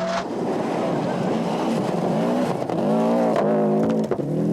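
Turbocharged four-cylinder engine of a 1995 Group A World Rally car at full effort on a stage, with revs falling and climbing again through gear changes over a steady hiss of tyre and road noise.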